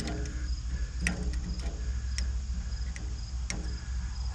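Crickets chirping steadily, with three sharp clicks or taps at about one, two and three and a half seconds in.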